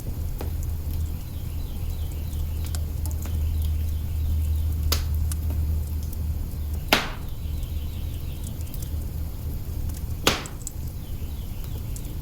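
Wood fire burning in an open hearth: crackling with scattered small snaps over a steady low rumble, and two sharp pops about seven and ten seconds in.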